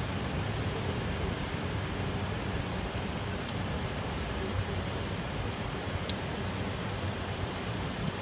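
Steady rain falling: an even hiss over a low rumble, with a few sharp ticks of drops striking close by.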